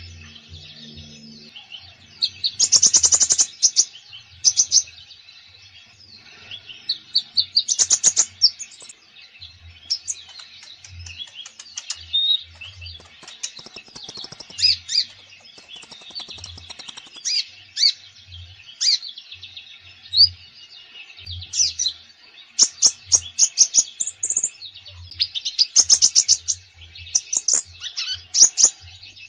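Konin songbird singing continuously: a stream of varied high chirps, slurred whistles and rapid repeated-note trills, with louder bursts of song about 3 s and 8 s in and a dense run of phrases near the end. A full, varied song of the kind keepers use to coax quiet birds into singing.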